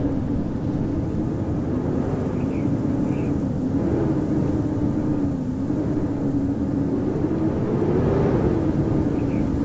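Howling winter wind: a steady rushing with a low moaning tone that slowly wavers up and down in pitch.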